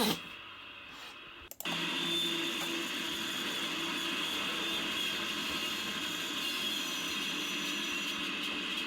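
Steady outdoor background noise picked up by a trail camera's microphone, with a faint even hum and hiss. It starts abruptly at a clip cut about a second and a half in, after a quieter stretch.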